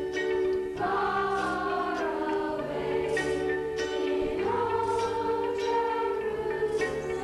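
Youth choir singing in unison over a steady low accompaniment, with held notes that change about every second or two.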